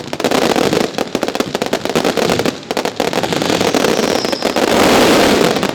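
Dense, rapid barrage of firecracker bangs, mascletà-style, growing louder to a peak near the end and then stopping abruptly.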